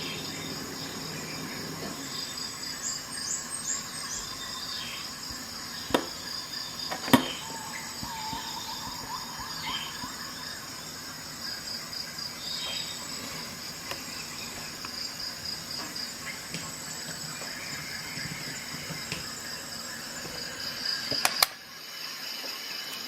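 Crickets chirping steadily, with sharp clicks from a Swiss Army knife's tools being opened and snapped shut: one about six seconds in, a louder one about a second later, and a cluster near the end.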